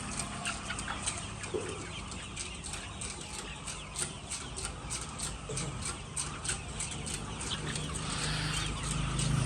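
Chickens clucking, with a run of sharp clicks, several a second.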